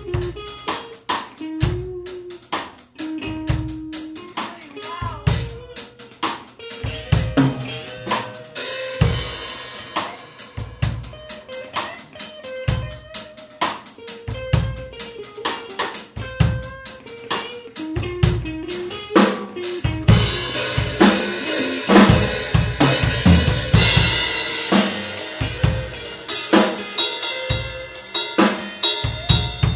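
Improvised blues-fusion duet of drum kit and guitar: the drums keep a busy groove of bass drum, snare and rimshots under short single-note guitar phrases. About two-thirds of the way through the drumming builds, louder and with heavier cymbal wash.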